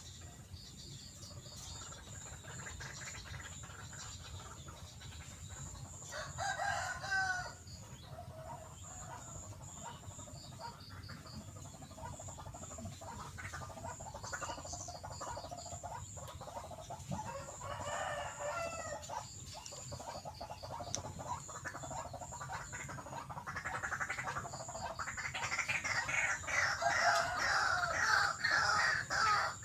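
White-breasted waterhen calls: short bouts of harsh, fowl-like calling that grow into a loud, rapidly repeated chorus near the end. A faint steady high whine runs underneath.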